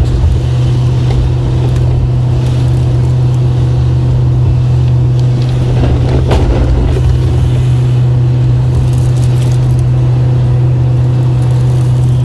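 Plow truck's engine running with a steady low drone, heard from inside the cab, with light rustling.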